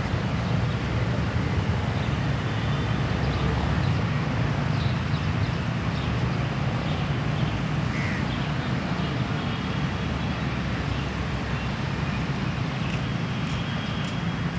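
A steady low rumbling noise that holds at an even level throughout.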